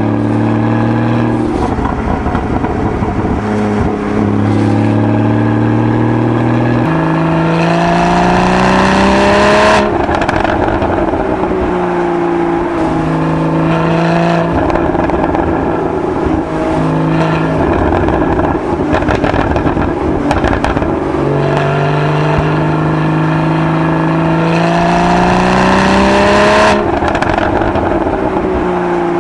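Porsche 981 Boxster GTS's 3.8-litre naturally aspirated flat-six on its stock exhaust, accelerating hard. The engine note rises in steps with quick gearchanges of the seven-speed PDK, and cuts off sharply on lift-off about ten seconds in and again near the end.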